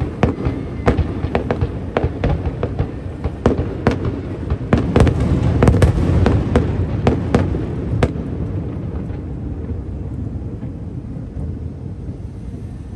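Aerial fireworks bursting in quick, irregular cracks and bangs over a rolling low rumble. The bursts come thickest about five to seven seconds in, stop a little after eight seconds, and the rumble then fades away.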